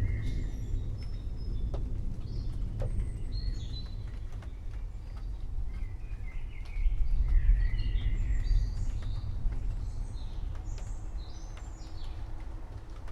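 Birds chirping and singing over a low rolling rumble of distant thunder, which swells about seven seconds in.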